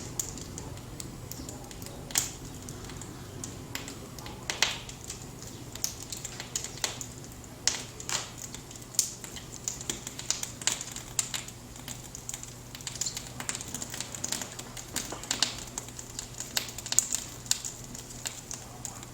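Freshly lit wood fire crackling in a fireplace: irregular sharp pops and snaps, several a second at times, over a low steady hum.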